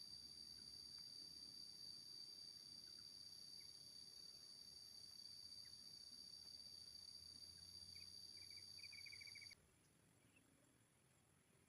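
Faint, steady, high-pitched drone of a wild insect chorus, crickets or cicadas, that cuts off suddenly about nine and a half seconds in. Just before the cutoff comes a short run of quick, high chirps.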